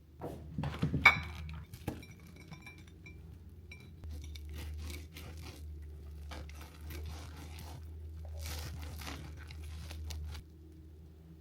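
Dishes and glassware being handled, with a loud clink about a second in and smaller knocks and rustles after, over a steady low hum that cuts off suddenly near the end.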